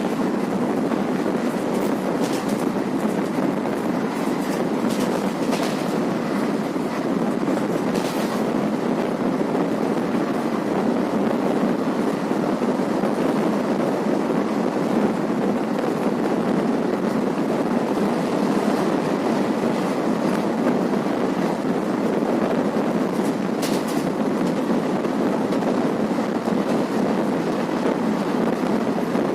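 Passenger train running along the track, heard from on board as a steady noise of wheels on rails. A few sharp clicks come in the first eight seconds and once more near the end.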